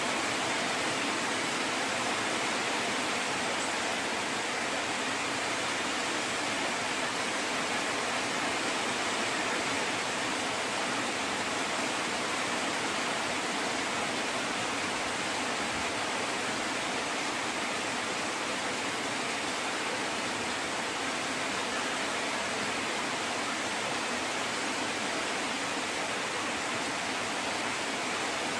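Steady rain falling, an even hiss that holds unchanged throughout, with no thunder.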